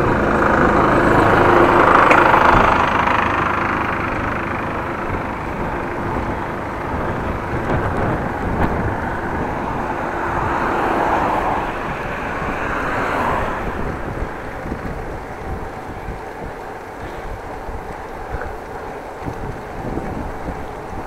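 Road traffic noise with vehicles passing by. The loudest pass comes about two seconds in, and another swells and fades around eleven to thirteen seconds in.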